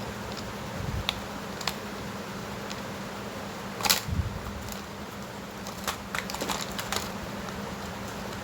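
Scattered clicks and light knocks, as of small parts being handled, with a louder clack about four seconds in and a quick run of clicks near the end, over a steady low hum.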